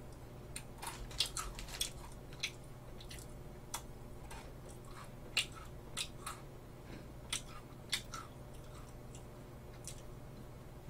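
Close-miked biting and chewing of Lotte White Cookie Pepero biscuit sticks: irregular crisp crunches, a few every second or so, over a faint steady low hum.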